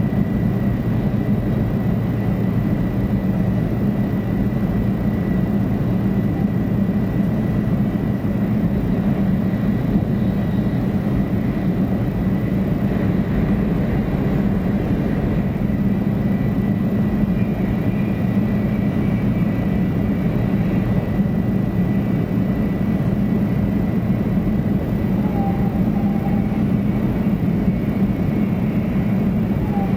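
Steady running noise of a 500 series Shinkansen heard inside the passenger car: an even low rumble with a faint steady high whine above it.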